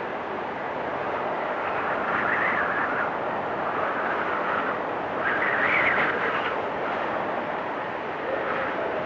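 Blizzard wind blowing steadily, with gusts swelling into a higher whistle about two seconds in and again around five to six seconds in.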